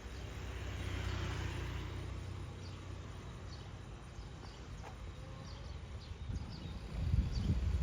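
Outdoor street ambience: a low steady rumble that swells about a second in, like a vehicle going by, with faint bird chirps. From about six and a half seconds uneven low rumbling knocks grow louder.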